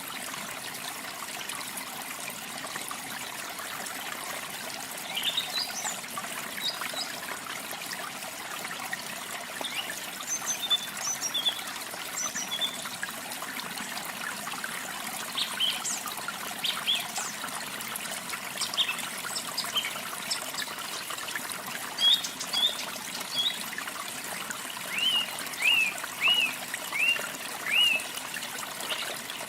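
Water trickling and splashing steadily, with songbirds calling over it in short high chirps and whistles; near the end comes a quick series of five or six falling chirps.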